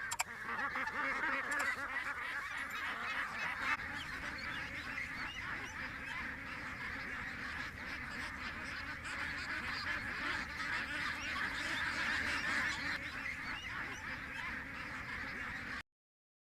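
A flock of waterfowl calling all at once, a dense, continuous chatter of many overlapping honks and quacks that cuts off suddenly near the end.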